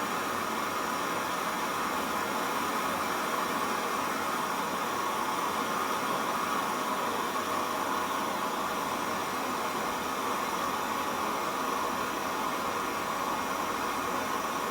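Small handheld gas torch flame hissing steadily while brazing copper refrigerant tubing on a refrigerator.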